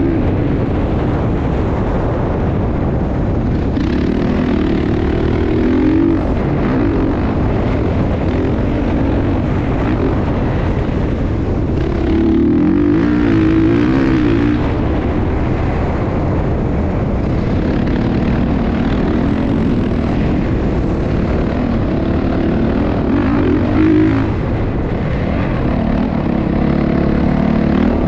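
Motocross motorcycle engine running, its pitch rising and falling as the throttle opens and closes, louder for stretches.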